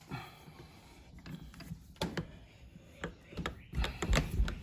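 Bench vise being cranked shut to press a rubber bushing into a shock absorber's eye: irregular metal clicks and clanks from the screw and handle, with heavier knocks near the end.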